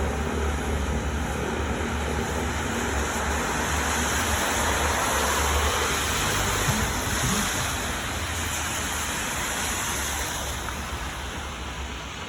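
Storm wind rushing and buffeting a phone microphone, a steady deep rumble under a broad hiss. It swells about halfway through and eases slightly near the end.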